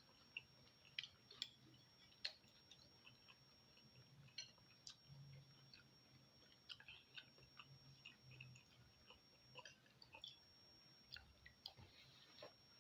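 Faint close-up chewing of bakso meatballs and rice, with many small irregular mouth clicks and smacks.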